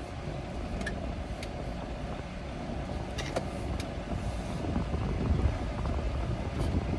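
Steady low hum and rumble of a car's engine heard from inside the cabin, with a few light clicks.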